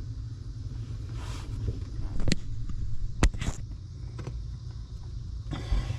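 Two sharp clicks and a few short rustles of hands and tools at work, over a steady low rumble.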